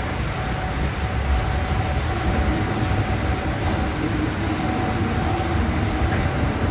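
Staten Island Railway train running on the line, heard from inside the car: a steady low rumble of wheels and motors with a faint, even hum over it.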